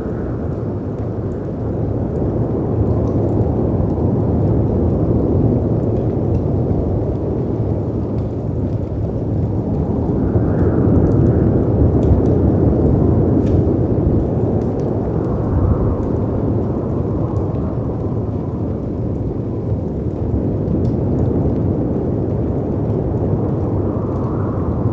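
Mixed storm-and-fire ambience: a dense, steady rush of wind and breaking sea waves that swells and eases every few seconds, with gusts of howling wind rising a little higher now and then. Faint crackles of a fireplace tick over it.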